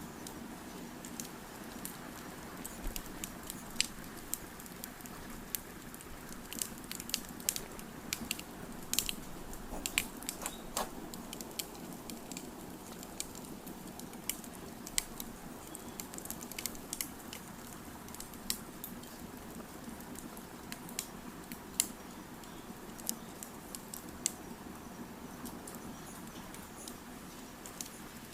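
Wood fire crackling: irregular sharp pops and snaps, busiest in the first half, over a steady low rush.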